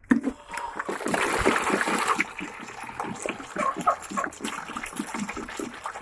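Fresh water poured into the birds' drinking container, with a splashing pour about a second in that lasts about a second. Short, repeated sounds from the rooftop chickens run alongside it.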